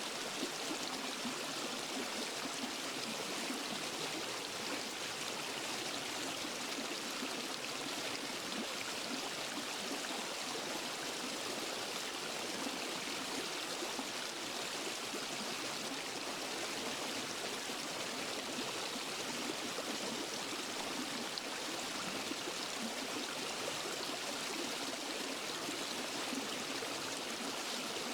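Waterfall and forest stream flowing: a steady, even rush of water with no breaks.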